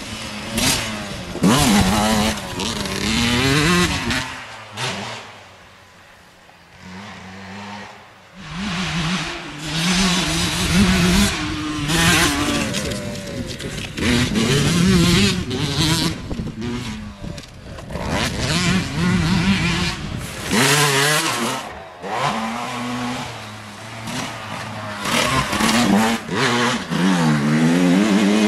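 Motocross bike engines revving hard, pitch climbing and dropping again and again through the gears, with a quieter spell about five to eight seconds in.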